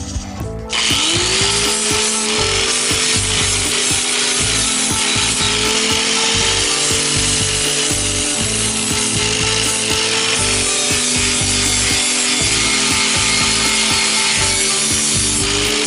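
A small electric power tool spins up about a second in and runs with a loud, steady grinding hiss. Its motor pitch sags and recovers several times as it is pressed into the work. Background music plays underneath.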